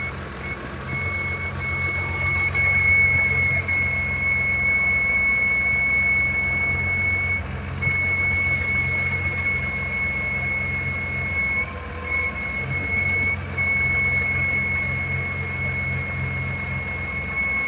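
BMW engine running with a steady high-pitched squeal over the low engine hum, the squeal breaking off briefly a few times. It sounds like something scraping; the owner suspects an idler or tensioner pulley, the alternator or the camshaft.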